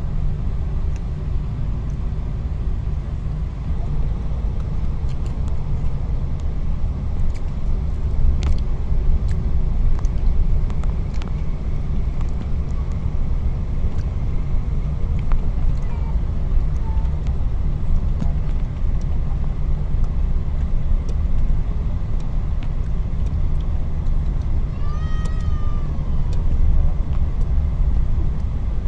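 Steady low rumble of a car driving along the road, engine and tyre noise. A few faint clicks are heard, and one short pitched sound that rises and falls comes near the end.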